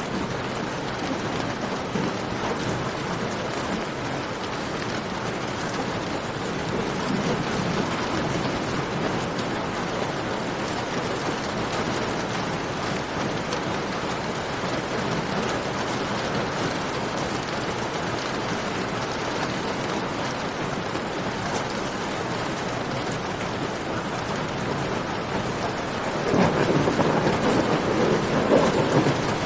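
Steady rain falling in a cave, with faint sharp crackles from a campfire. A louder, deeper swell rises near the end.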